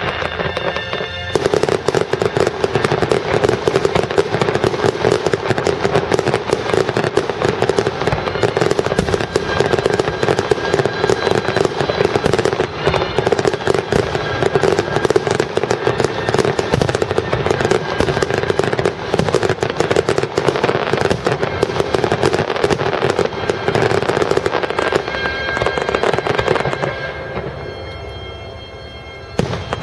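Fireworks display: a dense, continuous barrage of bangs and crackle that starts about a second in and eases off near the end.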